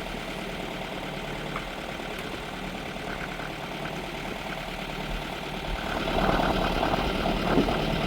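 A sailboat's engine running steadily under way, growing louder about six seconds in.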